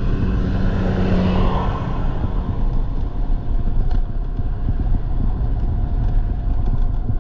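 Wind rumbling on the microphone with road noise while riding along, and a vehicle passing about a second in.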